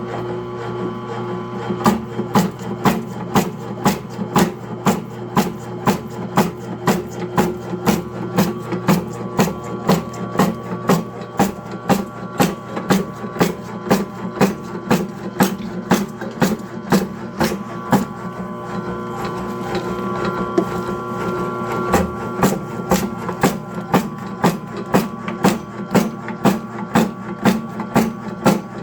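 Motor-driven machine running with a steady hum and a regular knock about twice a second. The knocking stops for a few seconds about two-thirds of the way through, then resumes.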